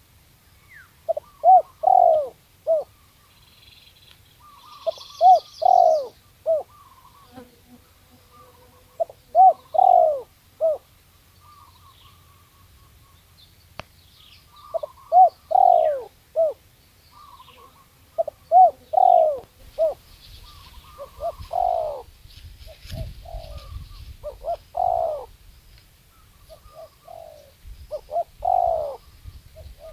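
Spotted dove cooing in repeated phrases of several short coos, a phrase every few seconds, with smaller birds chirping faintly higher up. A low rumble runs under the calls in the last third.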